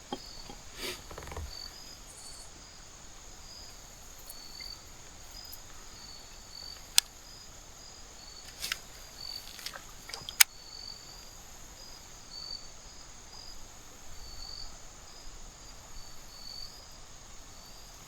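Crickets chirping, a steady run of short high pulses, with a few sharp clicks now and then.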